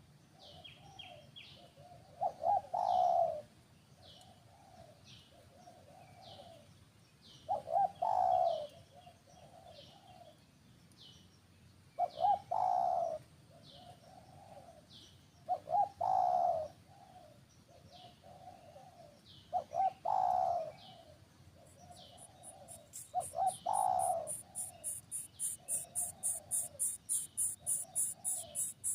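A dove cooing a short repeated phrase about every four to five seconds, with small birds giving short high chirps in between. Near the end a fast, high-pitched pulsing trill starts up.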